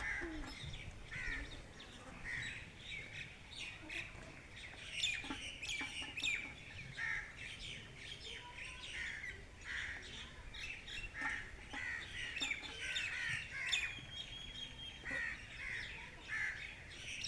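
Wild birds chirping and calling, many short notes overlapping without pause.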